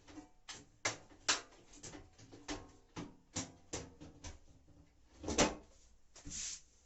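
Irregular clicks and knocks of metal and plastic panel parts being handled and fitted while a Whirlpool front-loading washing machine is reassembled, with a longer scraping sound about five seconds in.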